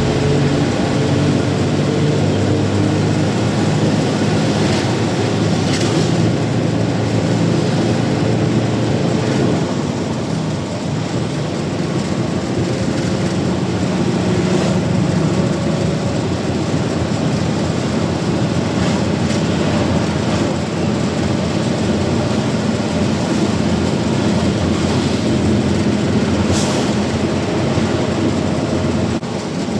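Truck engine running steadily under way, with road noise. Its note shifts about ten seconds in, then settles again, and there are a few brief knocks.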